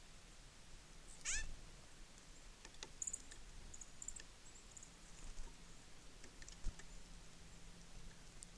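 Birds at a winter feeder: one short, harsh call sliding steeply down in pitch about a second in, then several thin, very high chips and calls, with scattered light ticks and taps.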